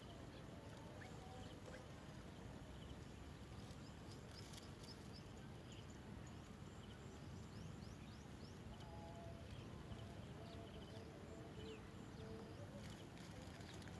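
Faint outdoor ambience with a steady low hiss and scattered distant bird calls: a few short low notes around the middle, then thin high chirps near the end.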